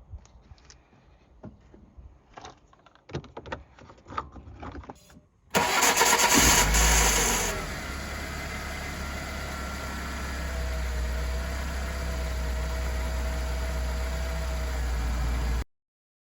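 Scattered light clicks and knocks, then about five seconds in the BMW E36's engine starts, running loud for a couple of seconds before settling to a steady idle. The sound cuts off suddenly near the end.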